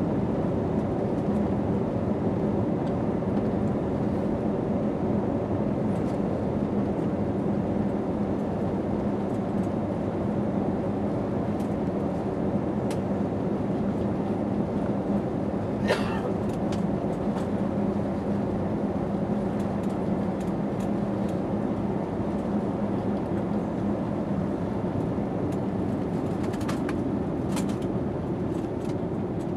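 Airliner cabin noise inside an Airbus A320neo: the engines run at a steady pitch with a low hum under a broad rush of air. There is one sharp click about sixteen seconds in, and the sound eases slightly near the end.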